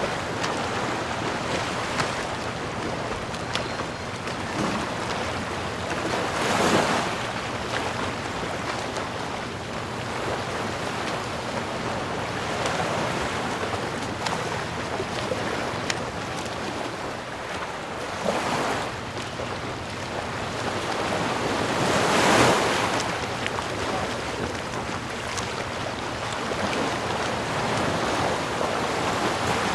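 Ocean waves washing on a shore: a steady wash of surf with louder breaking surges swelling up about 7, 18 and 22 seconds in.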